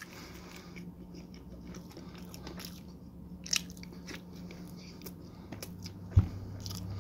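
A man biting into and chewing a slice of cheesy garlic pizza, with faint crunching and wet mouth sounds over a steady low hum. A single thump sounds about six seconds in.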